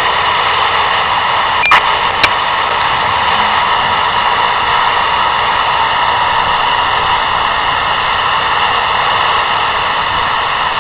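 Steady hiss of static from an airband radio between air traffic control transmissions, with two short clicks about two seconds in.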